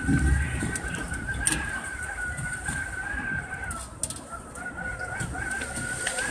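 Electric commuter train running along the track, heard from inside the driver's cab: a low rumble under a steady high whine, with a few sharp clicks.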